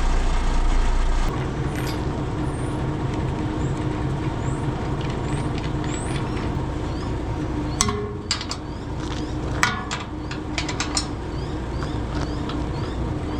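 Truck engine running steadily, its low rumble easing a little about a second in, with a few sharp knocks around the middle and again a couple of seconds later.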